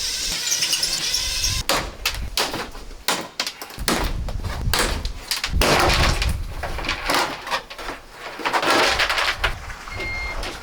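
Irregular knocks, clatters and scraping of a van's interior panelling and fittings being pried off and pulled apart.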